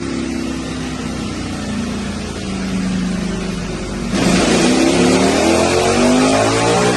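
Ducati Panigale V4S's 1,103 cc V4 engine running under load on a dyno, its exhaust note holding fairly steady at first. About four seconds in the throttle opens wide: the exhaust gets louder and climbs steadily in pitch as the revs build.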